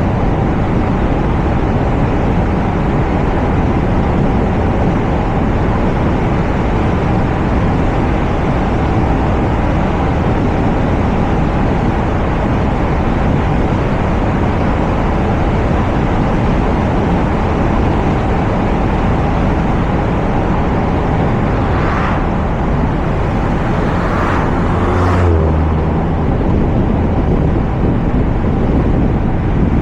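Steady wind and road noise from a moving Toyota RAV4, picked up by a camera mounted on its roof. About three-quarters of the way through come a few short swooshes and a brief low thump.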